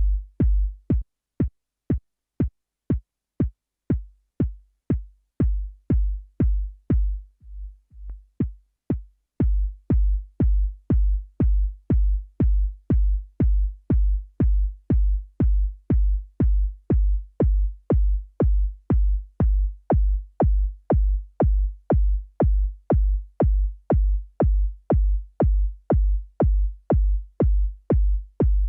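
Synthesized kick drum from Ableton's Operator synth playing in a loop, about two hits a second, each a fast downward pitch drop into a deep low thump. For the first nine seconds or so the low tail changes from hit to hit as the sound is shaped, then settles into a longer, steady boom.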